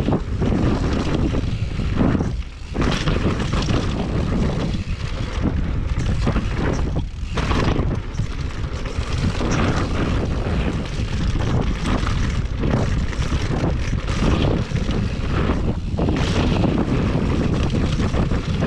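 Wind buffeting the microphone: a loud, continuous low rumble that drops away briefly several times.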